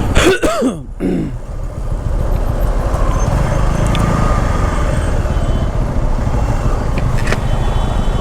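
Motorcycle under way: steady wind rush on the microphone over the running engine, after a brief voice in the first second.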